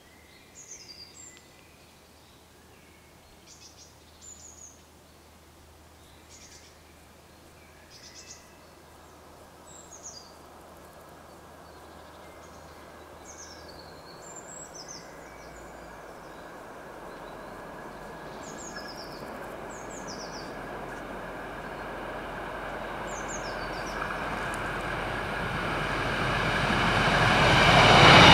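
Small bird giving short, falling chirps about every two seconds, then the rumble and rail noise of an approaching BR 646 (Stadler GTW) diesel multiple unit, growing steadily louder through the second half.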